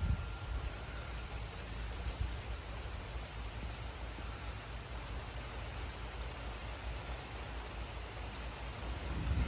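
Steady rain falling during a thunderstorm, an even hiss with a low rumble underneath. Near the end a low rumble of thunder begins to build.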